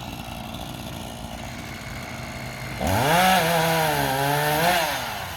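Two-stroke chainsaw idling low, then revved sharply to full throttle about three seconds in and held for about two seconds, its pitch sagging a little as it cuts the felled tree's trunk, before dropping back down.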